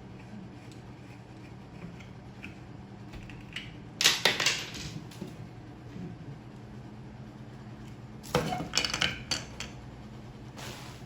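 Two short bursts of clattering, hard objects knocking and rattling together, about four seconds in and again about eight seconds in, over a steady low hum.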